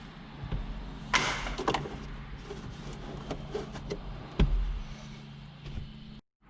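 Scattered clicks and knocks of parts and tools being handled in the Jeep's dash, over a low steady hum, with a heavier thump about four seconds in. The sound cuts off abruptly near the end.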